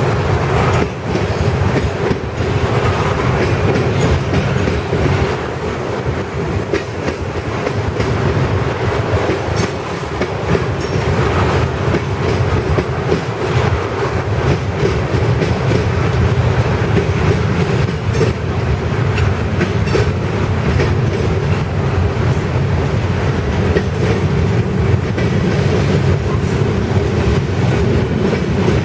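Freight train cars rolling past at steady speed, a continuous loud rumble with a steady ringing tone and repeated wheel clacks over rail joints.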